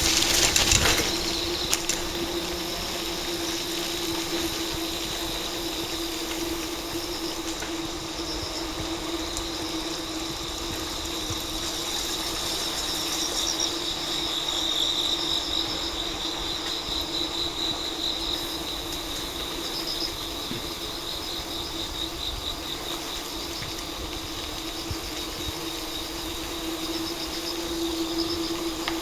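A steady mechanical hum, with insects chirping in a high, rapidly pulsing band.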